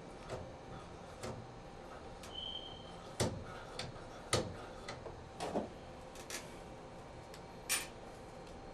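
Irregular clicks and light knocks, about eight in all, the loudest a little after three and four seconds in, with a short high squeak about two and a half seconds in.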